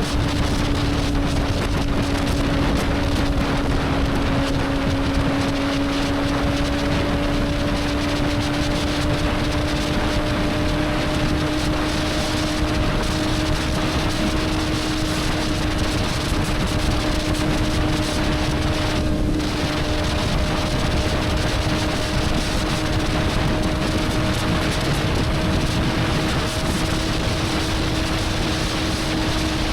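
Motorcycle engine holding a steady cruising note that creeps slightly up in pitch, under heavy wind rush on the microphone.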